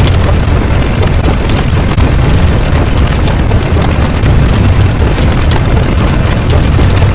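Loud, steady low rumble with a noisy hiss over it, an unbroken explosion-like sound effect.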